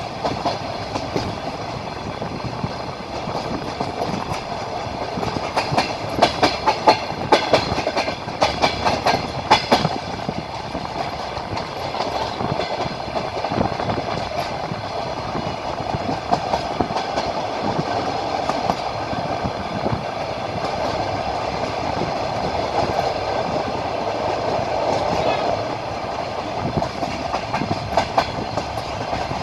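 Passenger train wheels clattering over rail joints, heard from a carriage window, over the steady running noise of the moving train. A quick run of wheel clicks comes about six to ten seconds in.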